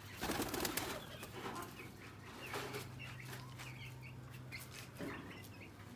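Small caged birds chirping over and over in short notes, with a loud rustling scuffle in the first second.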